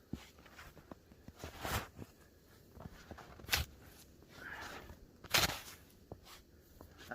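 Snow shovel chopping and scraping into deep drifted snow: three strong crunching strokes, each nearly two seconds apart, with fainter crunches between.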